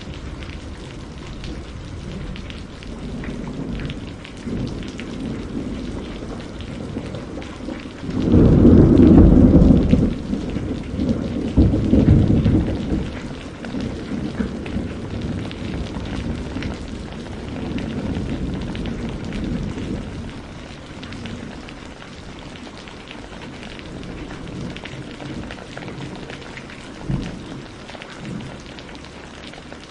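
Steady rain with a roll of thunder. The thunder rumbles loudest about a third of the way through, swells again shortly after, then fades back under the rain, with a short sharper crack near the end.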